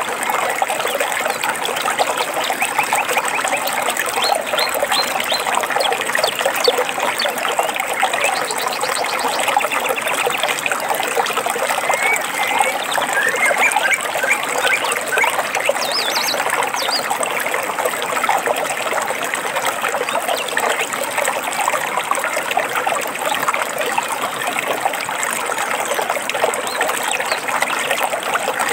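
Stream water babbling and trickling steadily, with a few short bird chirps over it now and then.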